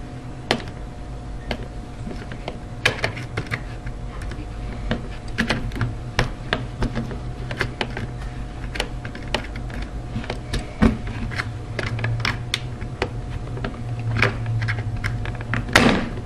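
Irregular light clicks and taps of small refrigerator control parts being handled, a few a second, over a steady low hum.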